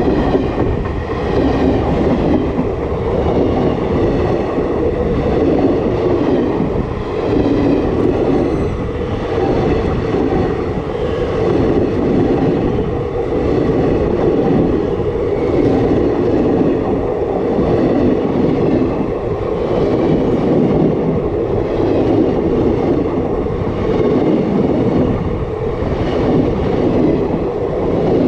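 Passenger coaches of an express train rolling directly over a microphone set between the rails: a loud, continuous rumble of steel wheels on the track. A rhythmic clatter swells and fades a little more often than once a second.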